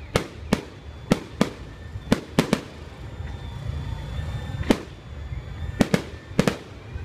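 Aerial fireworks bursting overhead: about a dozen sharp bangs at irregular intervals, several close together, with a short lull in the middle.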